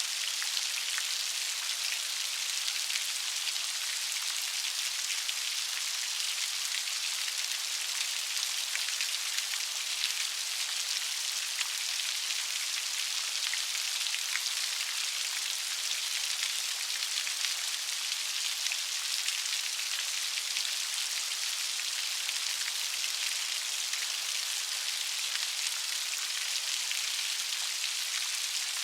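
Steady light rain falling, an even hiss of many fine drops pattering on a surface.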